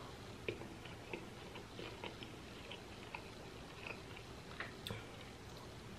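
Faint close-miked eating sounds: chewing and finger-licking, with soft wet clicks and smacks at an uneven pace of one or two a second.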